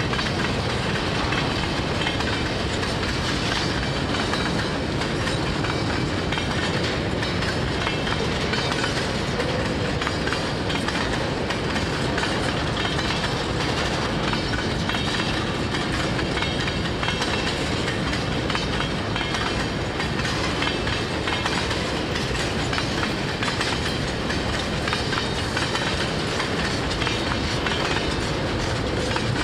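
Freight train cars rolling past at steady speed, a continuous rumble of wheels on rail with clickety-clack over the rail joints.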